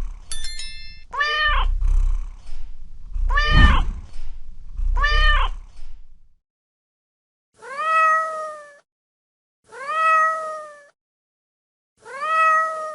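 Domestic cat meowing, six separate meows. The first three come over a low rumble; the last three are longer, clean meows about two seconds apart.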